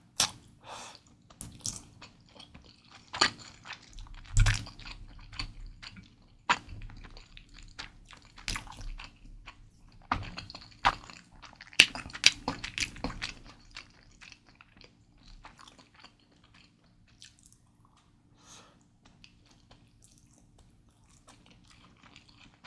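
Close-miked chewing of Mi Goreng instant fried noodles: irregular wet smacks and mouth clicks, busy for the first half and then sparse and faint.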